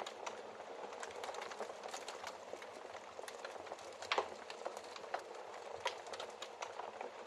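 Wood fire crackling steadily in a fireplace, with many small snaps and one louder pop about four seconds in.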